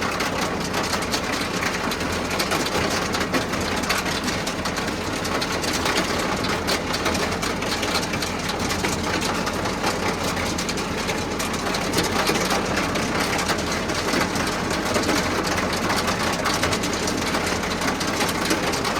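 Tractor engine running steadily with a dense, fast mechanical clatter from a silage feed-out wagon at work, feeding out silage.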